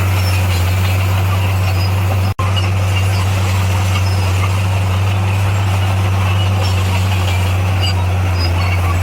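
Heavy diesel engine of an SDLG motor grader running steadily with a constant low drone. It breaks off for an instant about two seconds in.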